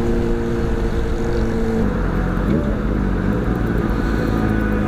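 Honda CBR600RR inline-four engine under way at a steady pitch, which drops a little under two seconds in as the throttle comes off, over steady road and wind noise.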